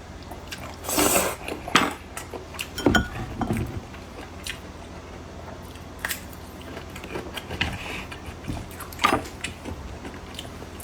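Close-miked eating sounds: biting and chewing, with scattered sharp clicks and knocks of tableware. There is a short noisy burst about a second in.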